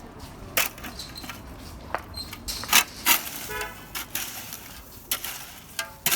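Scattered sharp knocks and clicks, with a short pitched toot like a horn about three and a half seconds in and a fainter one near the end.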